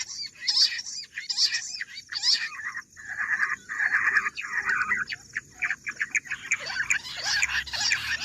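Bush quail calling: a fast, continuous run of high, repeated chirping notes, used as a quail hunting call.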